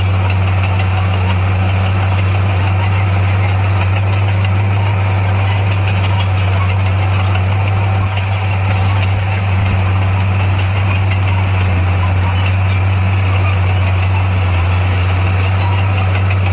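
Heavy construction machine's diesel engine running at a steady speed, a deep, even drone that does not rev up or down.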